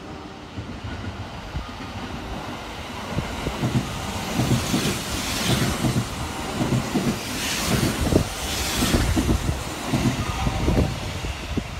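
Kintetsu 50000 series 'Shimakaze' limited express electric train running through the station at speed without stopping: a rumble of wheels on rail with a rhythmic clatter over the rail joints. It builds from about three seconds in, is loudest as the cars pass close by, and eases off near the end.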